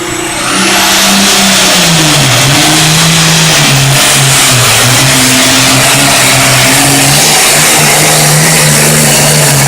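Super Farm class pulling tractor's turbocharged engine running at full power as it drags the weight sled down the track. A high whine rises as it comes on in the first second. The engine pitch dips about two seconds in, then holds steady and loud.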